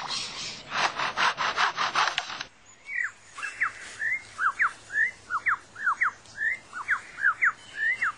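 Superb lyrebird mimicking foresters' chainsaws, a run of rapid rasping, sawing strokes, then switching at about two and a half seconds to a quick series of short, clear whistles, each sliding downward.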